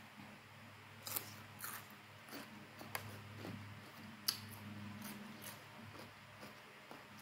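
Close-up mouth sounds of someone chewing pieces of mango: a string of sharp, wet clicks and smacks several times a few seconds apart, the loudest about a second in and just past four seconds, over a steady low hum.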